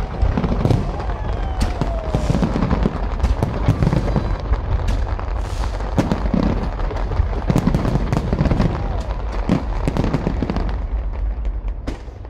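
Fireworks display: a dense, unbroken run of shell bursts and crackling stars with low booms. It thins out near the end.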